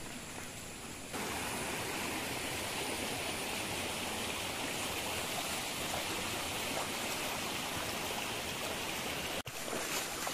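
Fast-flowing river water rushing steadily over rocks, a constant rush that steps up in loudness about a second in.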